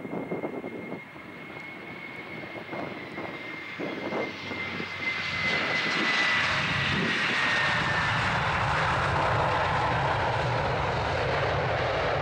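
Airbus A321 jet airliner passing on approach: a high engine whine that sinks slightly in pitch, then jet noise that swells about five seconds in and holds steady. Wind gusts on the microphone in the first half.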